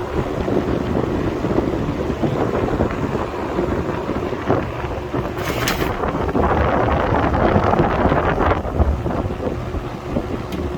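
1977 Kmart box fan running on its highest speed, its air stream buffeting the microphone as steady wind noise. A brief rustle comes a little past halfway.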